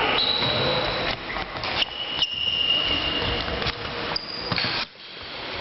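Floorball game sounds in a sports hall: sharp clicks and knocks of sticks and the plastic ball, with three high, steady squeaks, the longest lasting over a second.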